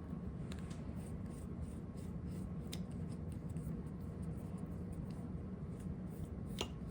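Light clicks and rubbing from a fountain pen being handled during an attempt to fill it, over a steady low hum, with a sharper click near the end.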